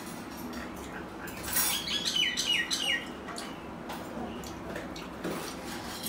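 A bird calling close by: a run of about four quick, falling chirps about a second and a half in, the loudest sound here. Under it, soft clicks and scrapes of fingers mixing rice on a steel plate.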